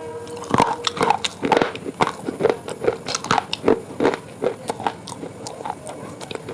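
Close-miked crunchy eating: someone biting and chewing crisp food, giving sharp crunches about two or three times a second that thin out near the end.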